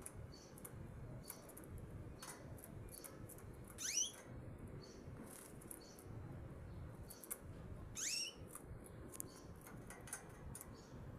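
Canaries giving short, faint high chirps, with two louder upward-sweeping calls about four seconds apart.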